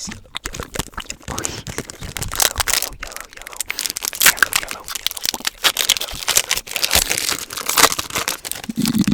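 A foil booster-pack wrapper crinkling and crumpling in the hands, close to the microphone: a dense run of crackles that goes on almost without a break.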